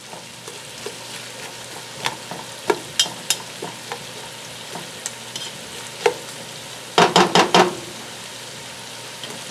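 Onions, mushrooms and bacon frying in a nonstick stockpot with a steady low sizzle, while a nylon slotted spoon stirs them with scattered clicks and scrapes against the pot. About seven seconds in there is a short burst of louder clatter.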